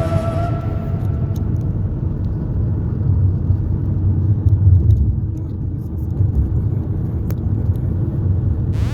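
Steady low rumble of a car on the move, engine and road noise, swelling a little about four to five seconds in.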